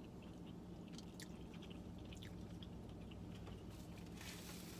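Faint chewing of fried shrimp, with small wet mouth clicks, over a low steady hum.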